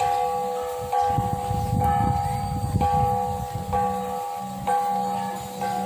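A temple bell struck over and over, about once a second, each strike ringing on into the next.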